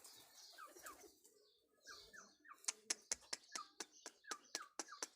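Birds giving short, faint chirps that slide down in pitch, one or two a second. From about halfway through come sharp clicks, about three a second, which are the loudest sounds.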